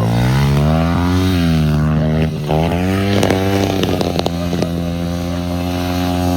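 Pit bike engine revving up and easing off twice, then running at a steady, slightly raised speed. A few sharp clicks or knocks come about halfway through.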